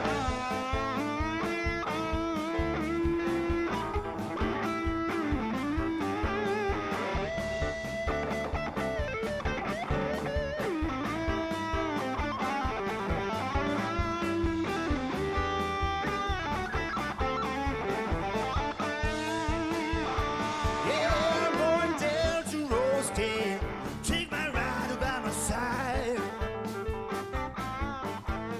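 Live blues band playing an instrumental break: a lead guitar solo with bending, wavering notes over bass and a steady beat.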